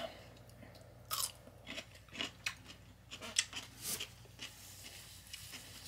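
A person chewing food with the mouth close to the microphone: irregular wet crunches and mouth clicks, thinning out after about four seconds.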